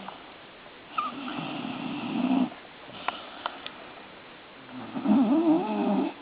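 Griffon dog snoring while awake on her back, two long snoring breaths, the second with a wavering pitch, brought on by a belly rub. A few light clicks come between the two breaths.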